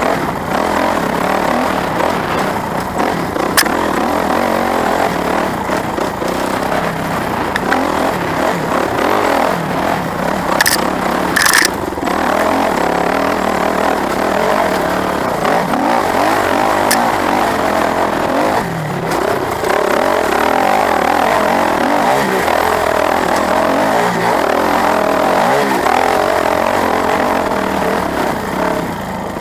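Motorcycle engine running steadily under load, with a few sharp clicks and knocks along the way.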